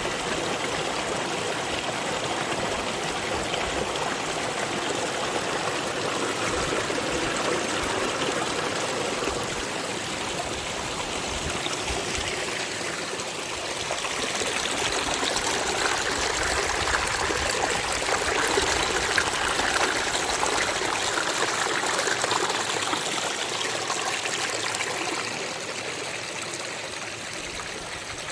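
Mountain spring water running and splashing down over rocks in a stream, a steady rushing that swells somewhat past the middle and eases off near the end.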